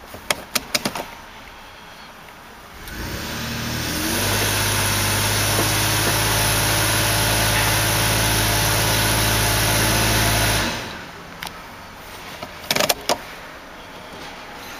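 Toyota Granvia's 5VZ-FE V6 engine revved up from idle, held steady at raised revs for about seven seconds, then let fall back to idle. A few sharp clicks near the start and again near the end.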